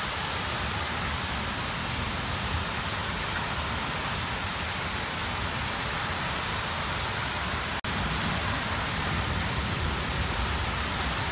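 Torrential rain pouring down in a steady, dense hiss, a wall of water that will not let up. The sound breaks off for an instant about eight seconds in.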